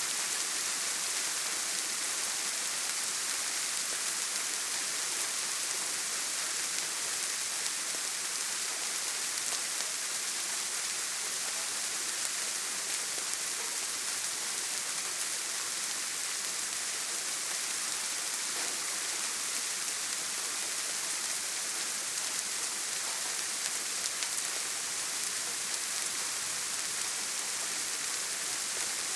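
Steady heavy rain falling on a tin roof: an even, unbroken hiss with no thunder.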